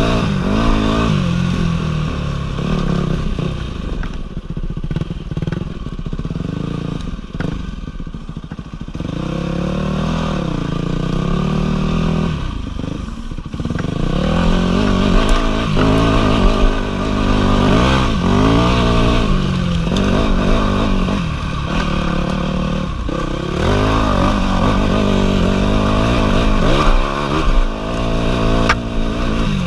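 Dirt bike engine ridden along a trail, its revs climbing and dropping back over and over. There is a quieter stretch about five seconds in, and it runs harder from about halfway.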